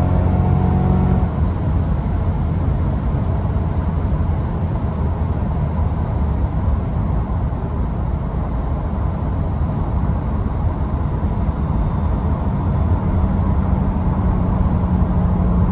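Chevrolet Corvette E-Ray's 6.2-litre V8 coming off the throttle about a second in after a hard run. The car then rolls on at speed with tyre and wind noise, and a steady engine hum returns in the last few seconds.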